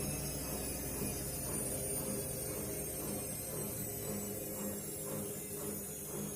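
Washing machine running with shoes in the drum, its motor humming with a faint high whine that drifts slightly down as the spin eases off, and a soft swish repeating about twice a second as the drum turns.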